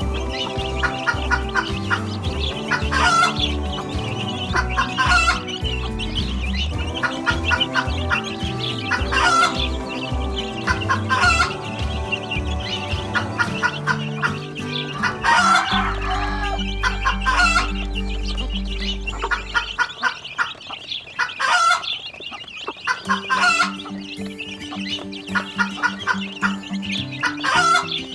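Chickens clucking in short repeated calls over a music track with held, changing notes.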